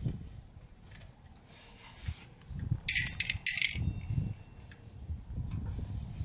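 Two quick bursts of metallic clinking and jingling, with a little ringing, about three seconds in, amid low handling and rustling noise.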